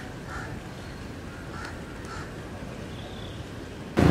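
Outdoor ambience with a low steady rumble and short bird calls, four or five of them spread over the first three seconds. Just before the end, loud background noise cuts in suddenly.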